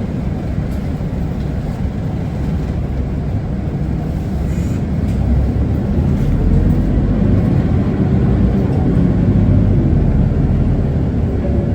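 Running sound heard inside an Isuzu Erga city bus on the move: a steady low rumble of the diesel engine and road noise. It grows louder about halfway through.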